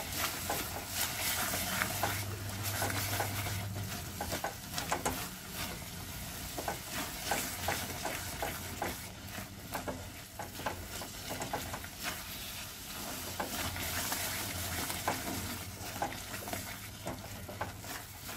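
Green peas in a thick onion, tomato and cashew masala sizzling in a pan while a spatula stirs and scrapes it, giving many short scrapes and soft clicks over a steady sizzle. This is the bhuna stage: the masala is frying in the oil it has released.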